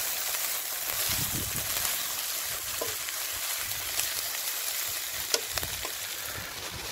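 Chicken, onion and rice sizzling in a GSI Pinnacle non-stick frying pan over a wood-burning twig stove, with tongs stirring through the food. A steady hiss runs throughout, with a few sharp clicks.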